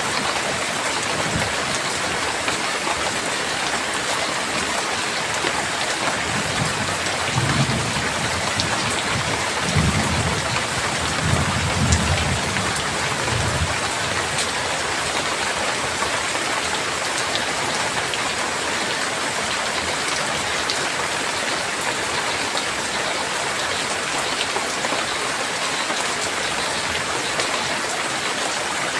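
Steady heavy rain hissing, with a low roll of thunder that rumbles from about a quarter of the way in to about halfway, then fades back under the rain.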